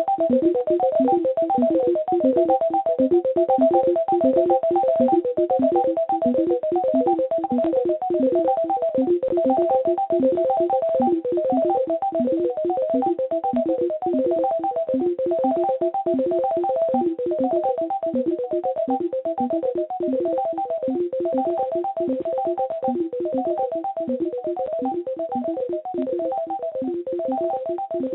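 Rapid electronic blips and bloops: a continuous stream of short synthesized tones that hop between pitches several times a second, heard over a telephone line.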